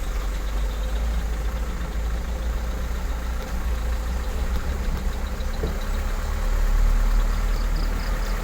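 Vehicle engine running with a steady low rumble, swelling slightly about seven seconds in.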